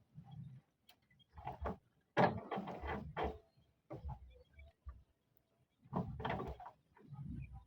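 Roof tiles being handled and pushed into place, making bouts of scraping and knocking: a short one about a second and a half in, a longer louder one from about two to three seconds in, and another near the end.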